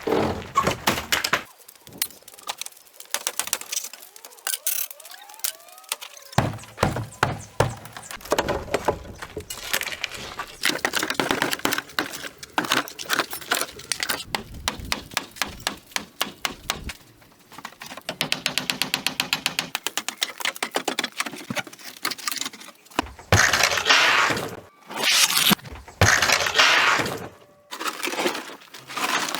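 Hands-on building or demolition work: a long string of irregular knocks, cracks and breaking sounds, with a run of rapid, even ticking past the middle and several longer rasping strokes near the end.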